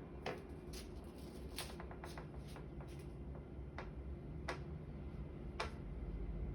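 Irregular faint clicks and taps, about a dozen, with a quick cluster near the middle, over a steady low hum.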